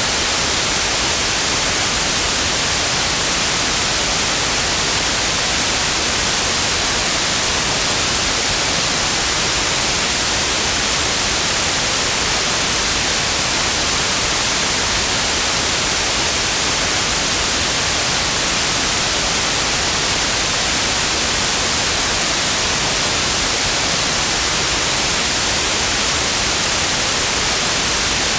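Steady, unchanging white noise: an even hiss across the whole range, with no events or changes.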